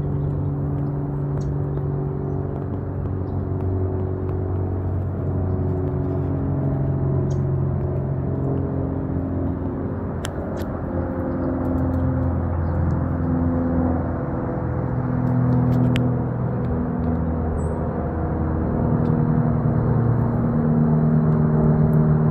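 A steady low mechanical hum, like a running engine, whose pitch shifts slowly up and down, with a few faint clicks over it.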